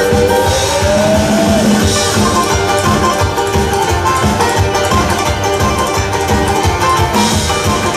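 Live band playing an instrumental passage with a steady drum beat; a single sliding note rises during the first second and a half.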